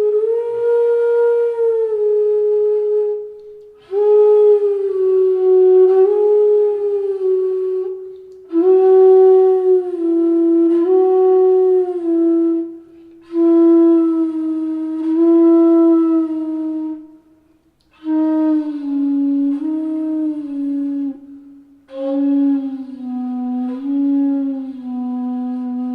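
Bansuri (Indian bamboo flute) playing a slow descending exercise from tivra ma down to lower pa. The notes are long and held, one per breath, with small bends, and each is a step lower than the one before.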